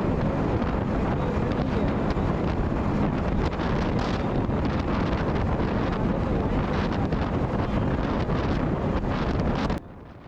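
Loud, steady wind rushing over the microphone of a Yamaha MT-15 motorcycle being ridden at high speed. It cuts off suddenly near the end.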